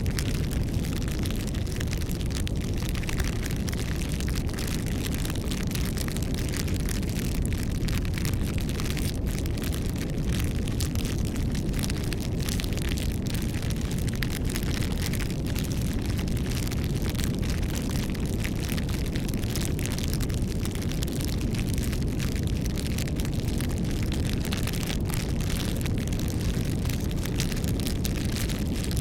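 Campfire burning steadily: a constant low rush of flame with many small crackles and pops from the burning wood.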